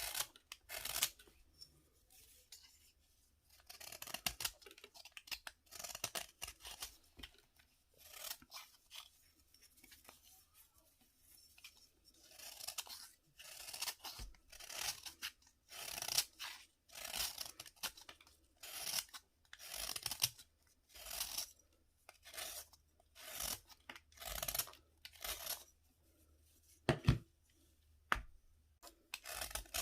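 Dry, crumbly bath fizzer being cut and crushed: a run of short crunching, scraping strokes, scattered with pauses at first, then about one a second. A sharp knock near the end is the loudest sound.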